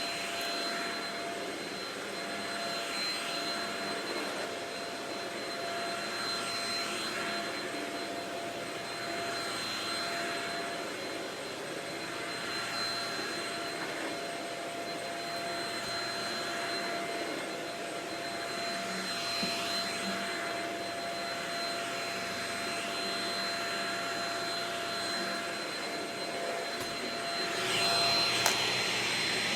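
Shark Rocket vacuum cleaner running steadily with a high whine over its hiss, the noise swelling and fading every three or four seconds. It grows a little louder near the end, with one brief click.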